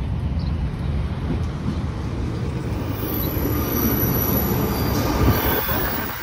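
Northern Class 150 diesel multiple unit pulling into the platform, a steady low rumble of engine and wheels running past close by. A high squeal sets in about halfway through as the train slows to stop.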